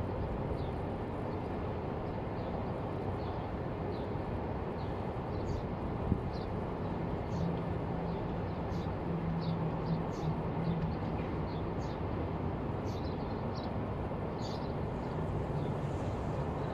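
Small birds chirping in short, repeated calls over a steady low outdoor rumble, with a faint low hum from about seven to eleven seconds in.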